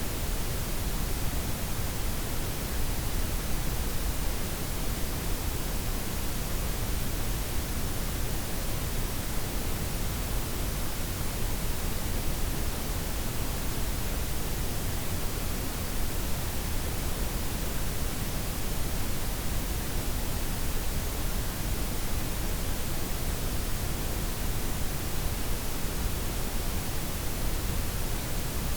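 Steady synthetic noise blend of white, pink and brown noise, an even hiss with a deep rumble underneath and softened highs, unchanging throughout.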